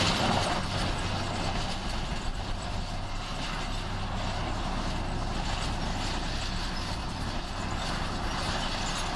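Heavy diesel earthmoving machine running steadily with a low hum and mechanical noise, easing off slightly in the first second.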